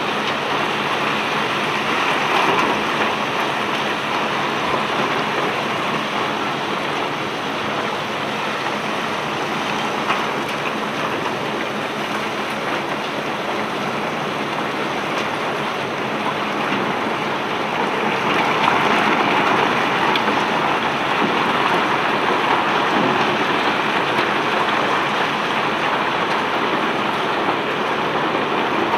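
A dense, continuous rattling clatter of cobblestones pouring and tumbling against one another as a barge is unloaded. It swells a little louder about two-thirds of the way through.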